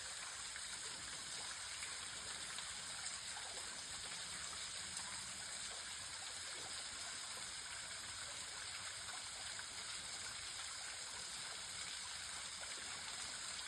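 Waterfall running at low flow, just a small trickle: a steady hiss of falling and splashing water.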